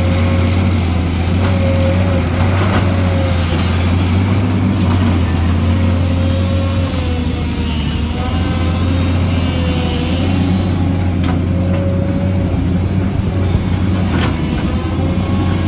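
Heavy diesel earthmoving machinery, an excavator, running steadily with a deep hum and a wavering whine over it, and a few sharp knocks.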